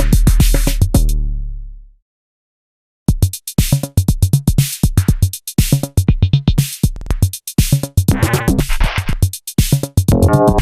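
Electronic drum machine beat run through Eurorack effects modules: the opening beat drops in pitch and fades away, and after about a second of silence a new, busier beat starts, switched between effects with pitched tones showing up near the end.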